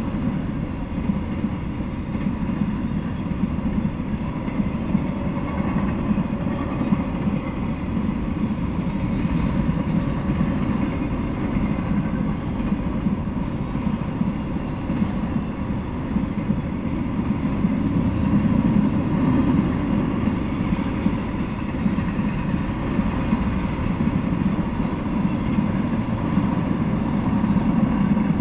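Freight train of autorack cars rolling past, a steady rumble of wheels on the rails.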